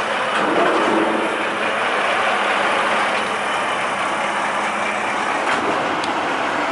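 Truck engine running steadily, an even rumbling noise with no change in pitch.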